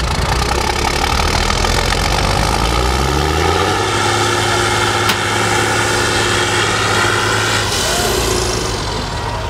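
Off-road trial truck's diesel engine revving up over the first few seconds, held steady under load, then easing off near the end. A single sharp click about five seconds in.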